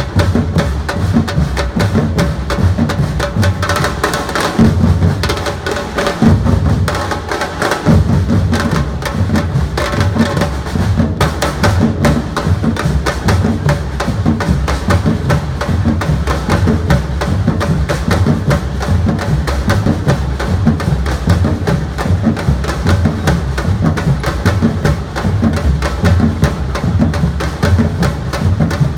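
Samba-reggae drum band playing: deep bass drums pound a steady beat under a fast, dense pattern of snare and higher-pitched drums, without a break.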